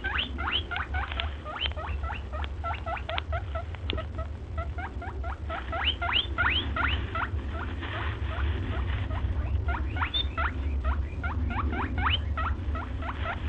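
A chorus of short, sharply rising squeaks from small animals, several a second, over a steady low rumble.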